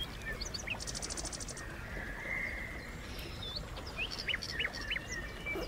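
Small songbirds chirping, short high chirps scattered through, with a brief fast buzzy trill high up about a second in.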